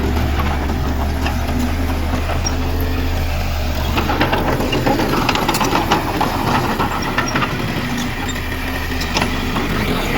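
Diesel engine of heavy earthmoving machinery running steadily, with irregular metallic clanks and rattles starting about four seconds in.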